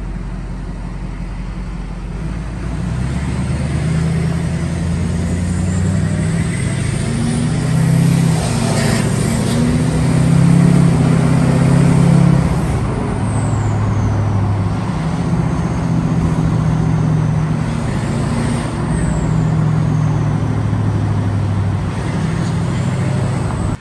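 Diesel pickup truck engine running and revving, its pitch stepping up and down, with a faint high whistle that rises and falls. The sound gets louder about three seconds in and cuts off abruptly at the end.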